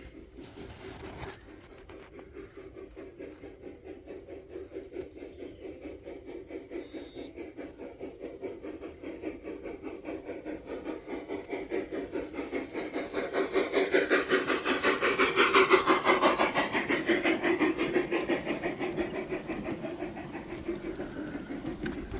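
Model train running on the layout's track, its wheels ticking rapidly and evenly over the rail joints. It grows louder as it approaches, is loudest about two-thirds of the way through as it passes close by, then fades a little.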